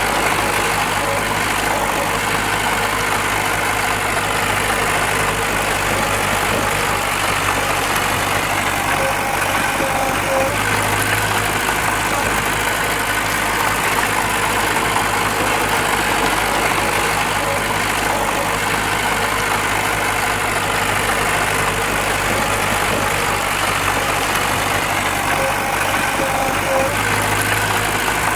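Heavy machine's diesel engine running steadily, a continuous low drone with no pauses.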